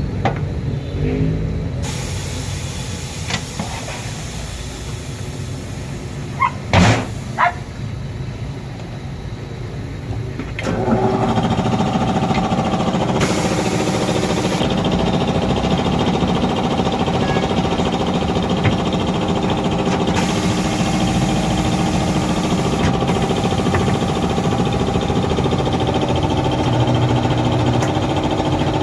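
A few sharp knocks, then about ten seconds in a motor starts and runs steadily with an even hum to the end.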